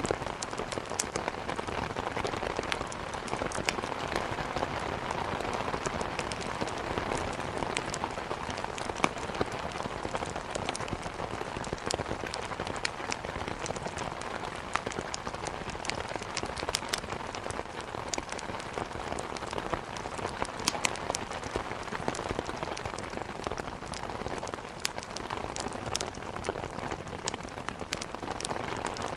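Steady heavy rain, mixed with the crackle of burning wood in a fireplace: a constant even rush with many small sharp pops and ticks scattered through it.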